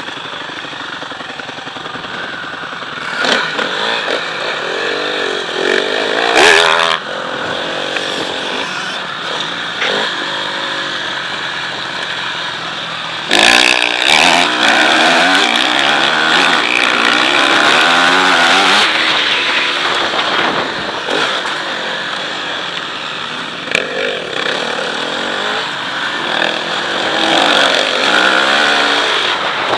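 Motocross dirt bike engines running hard, the pitch repeatedly rising and falling as the throttle is opened and shut. The sound gets louder about 13 seconds in.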